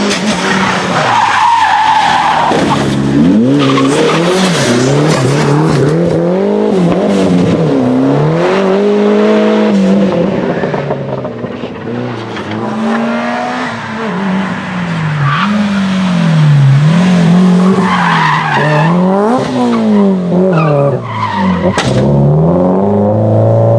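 Race car engine revving up and falling back over and over as it is driven flat out through a slalom, with tyre squeal.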